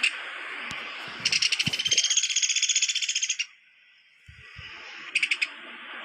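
Woodpecker giving a rapid rattling call, a fast even run of notes lasting about two seconds, then a short burst near the end, over a steady background hiss.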